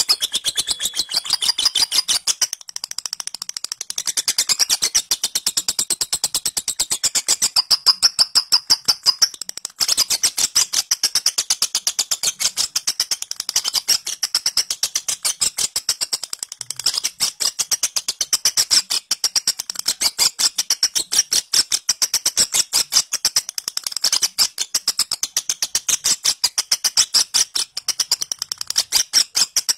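Lovebird in long 'ngekek' chatter: a fast, unbroken run of sharp high-pitched chirps, rattled out like typing, with a brief dip about three seconds in and a short break near ten seconds.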